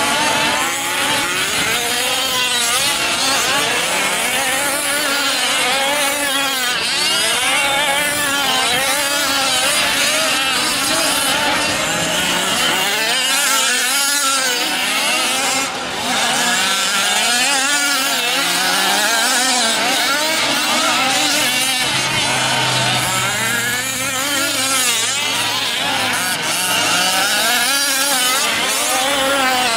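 Several 1/5-scale RC trucks' small two-stroke gasoline engines racing together, with many overlapping engine notes rising and falling as they rev and back off.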